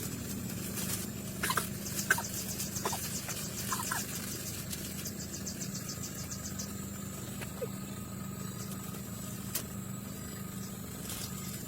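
Outdoor ambience over a steady low hum, with a few short high chirps in the first four seconds and another near the middle, and bursts of fast insect-like ticking.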